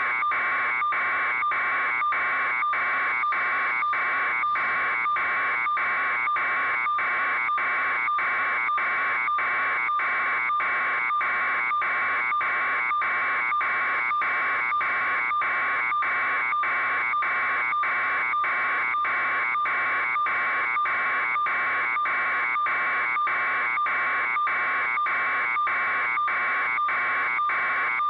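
A harsh electronic buzzing alarm tone, steady in pitch and pulsing with short regular breaks, about three beats every two seconds.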